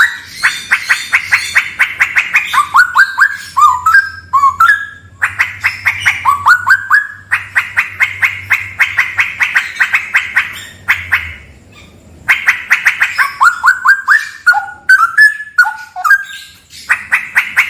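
Straw-headed bulbul (cucak rawa) singing loudly in phrases of rapid, evenly repeated notes, several seconds each, with a short silent break about eleven seconds in.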